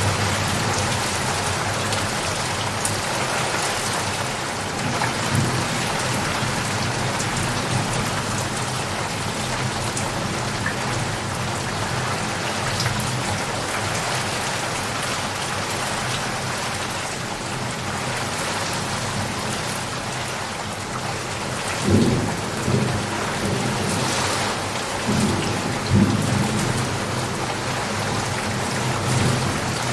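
Steady heavy rain falling, with low rumbles of thunder rolling in twice in the last third.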